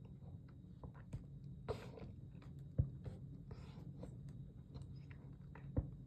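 Faint mouth and throat sounds from a person: scattered small clicks and smacks of lips and tongue, with a few soft breaths, over a low steady hum.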